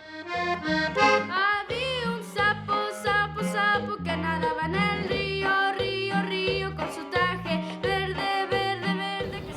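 Accordion playing a tune: a melody line over a steady rhythm of low bass notes that change about twice a second.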